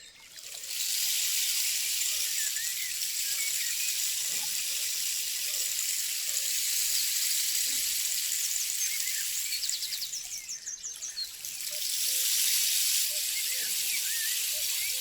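Rain stick (pau de chuva) sounding as it is tipped, its fill trickling down inside in a steady, very soft rain-like hiss. The hiss fades out about ten seconds in and starts again about a second later.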